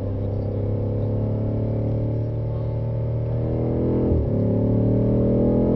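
BMW M5's engine accelerating hard under full load, heard from inside the cabin: the revs climb steadily, drop sharply at an upshift about four seconds in, then climb again to a second upshift at the end.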